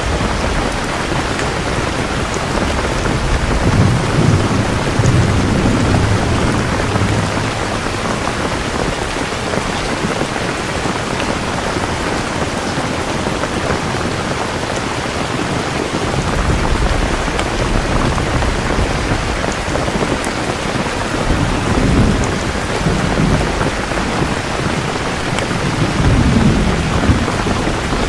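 Steady heavy rain falling, with low thunder rumbling in swells a few seconds in and again in the second half.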